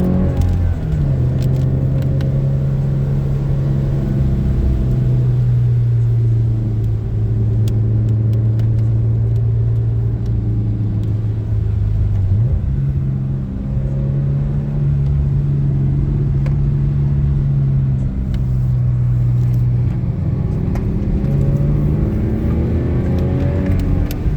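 Car engine droning as heard inside the cabin on the move, holding steady revs for long stretches, dropping in pitch about a second in, stepping up near the middle and rising again near the end, over steady road noise.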